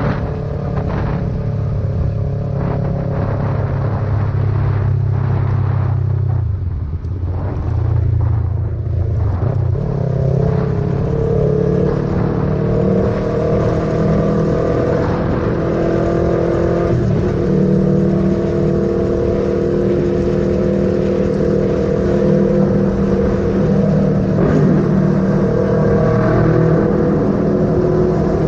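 Yamaha MT-03 motorcycle engine running under way, its pitch shifting with the throttle. It eases off briefly about seven seconds in, then pulls up again and runs steadily.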